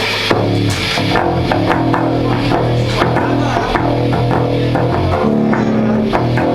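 Rock band playing live: electric guitar and bass guitar holding chords over a steady drum-kit beat.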